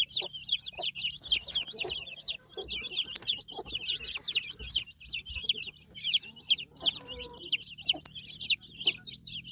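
A brood of baby chicks peeping continuously: many short, high chirps overlapping, several each second.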